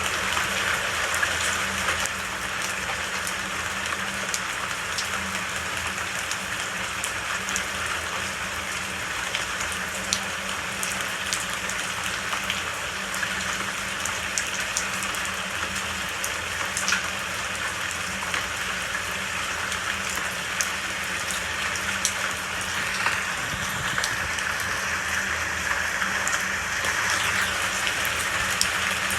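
Steady rainfall, with scattered drops ticking on a surface.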